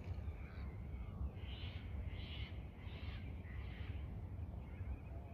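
A bird calls four times in quick succession, each call about half a second long, under a steady low rumble of wind on the microphone.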